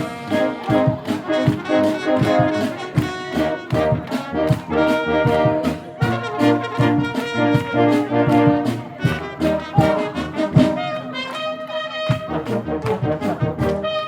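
A wind orchestra plays with the brass to the fore, trombones and trumpets leading over a steady drum beat. About eleven seconds in, the low parts and the drums drop away, leaving lighter held high notes.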